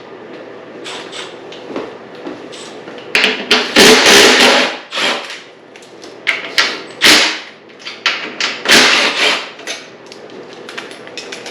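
Metal hand tools clattering and knocking, an irregular run of clanks and knocks with the loudest clusters about four, seven and nine seconds in.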